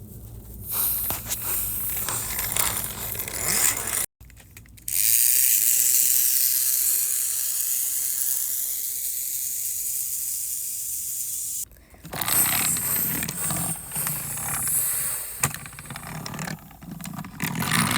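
Toy trains rolling along their track with clattering and scraping. The sound is broken twice by abrupt cuts, and in the middle a steady high whirring runs for about seven seconds.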